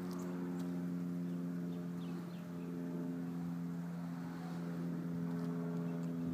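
A steady, even motor hum, like an engine running at constant speed, with a few faint chirps over it.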